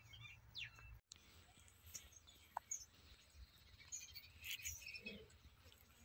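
Faint, scattered chirps of small birds over a quiet background.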